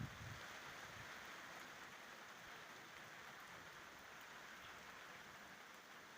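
Steady rain falling in a thunderstorm, a faint even hiss, with a brief low rumble at the very start.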